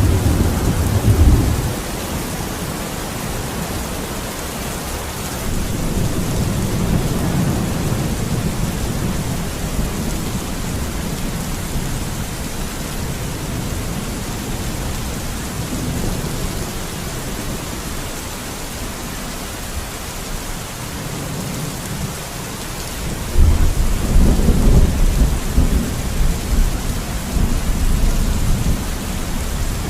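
Steady heavy rain hissing, with low rolling thunder rumbles swelling and fading; the loudest rumble comes in about three-quarters of the way through and rolls on for several seconds.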